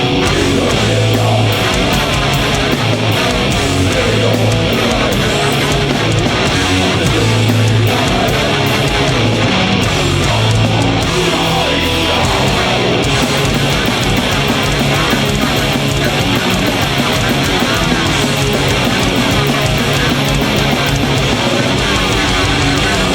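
Live heavy metal band playing loudly and continuously, with distorted electric guitars, bass and drums.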